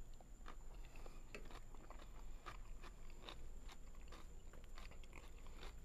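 A person chewing a mouthful of thinly sliced cucumber salad, heard as faint, irregular crunches and mouth clicks.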